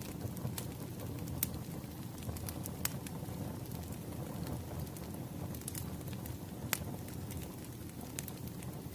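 Wood fire crackling: irregular sharp snaps and pops over a steady low rumble of burning logs, with one louder snap near the end.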